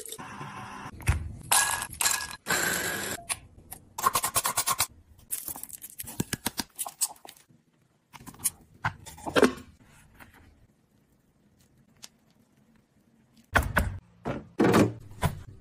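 Hands handling groceries and their packaging in a kitchen: rustling and scraping, a run of quick clicks, and knocks of items being set down. It falls quiet for a few seconds, then a couple of loud knocks come near the end.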